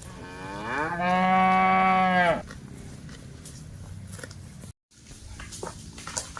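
A cow moos once: a single long call of about two seconds that rises in pitch at the start, holds steady, then breaks off sharply.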